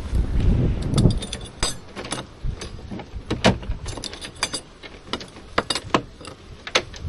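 A bunch of keys jangling and clinking in irregular sharp clicks as a door is locked, with wind buffeting the microphone, heaviest in the first couple of seconds.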